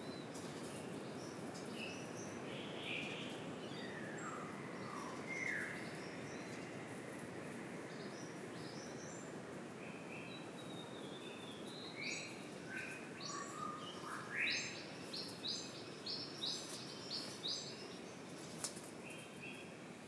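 Forest birds calling over a steady background hiss: a few short descending whistled notes about four to five seconds in, then a quick run of short repeated calls from about twelve seconds in.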